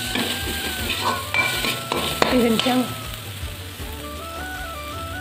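Onions and spices sizzling in hot oil in a steel wok, stirred with a steel ladle that scrapes and knocks against the pan. The scraping is busiest in the first half; after that the sizzle goes on more evenly.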